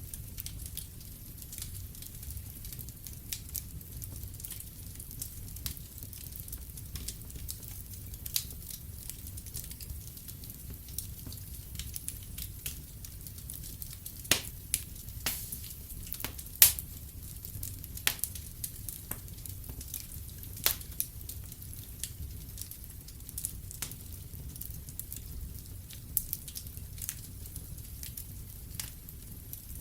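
Wood fire in a fireplace crackling over a low steady rumble, with irregular sharp pops, one loudest pop about halfway through.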